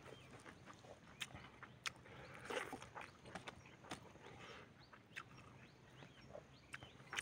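A person chewing and smacking their lips, close up, while eating chicken and rice by hand: wet mouth clicks and short smacks, the loudest about two and a half seconds in.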